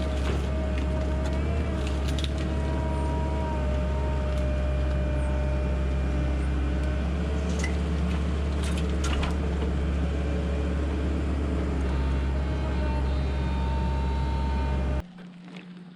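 Excavator diesel engine running steadily, with a hydraulic whine that shifts slowly in pitch. A few sharp cracks and knocks of debris come through it. The machine sound drops away suddenly near the end.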